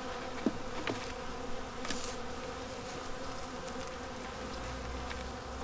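Honeybees buzzing around open hives: a steady, many-voiced hum of the colony. A few faint clicks sound in the first couple of seconds.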